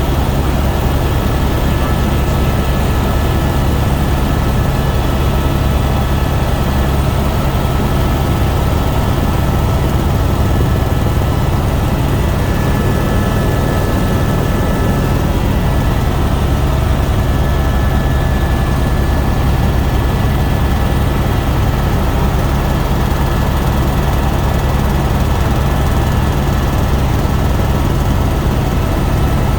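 Helicopter in steady flight: constant heavy rotor and engine noise, with a faint steady high whine over it.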